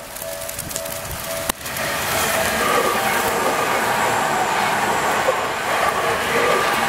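Railway level-crossing warning bell ringing in a quick, even on-off pattern. About one and a half seconds in, a Tokyu Toyoko Line commuter train comes past, and the loud rush of its wheels on the rails covers the bell.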